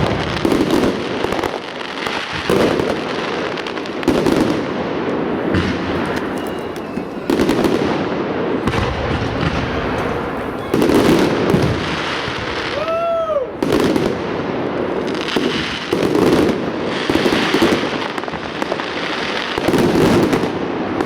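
Fireworks display: aerial shells launching and bursting in quick succession, with booms and crackle. About two-thirds of the way through comes a short whistle that rises and falls.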